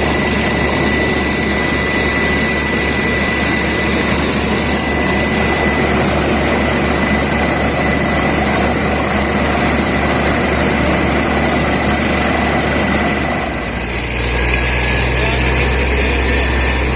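Borewell drilling rig running with its diesel engine and air compressor, a loud, steady mechanical din. About 13 seconds in it dips briefly and changes to a lower, steadier hum.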